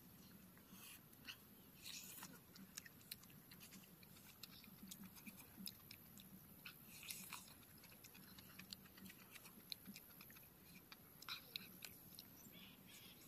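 Faint close-up chewing and biting of skewer-roasted meat, with many small scattered crunching clicks.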